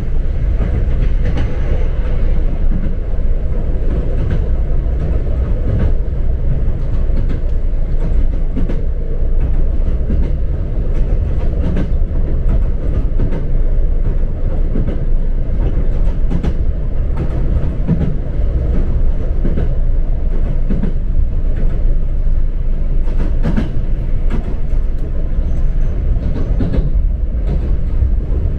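Passenger train running along the track, heard from inside the carriage: a steady low rumble of wheels and running gear, with scattered short clicks from the track.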